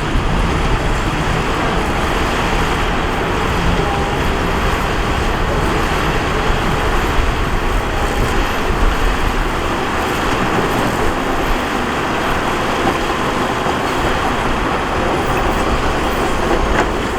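Diesel earthmoving machinery working on a gravel fill, a steady dense engine and earthmoving noise.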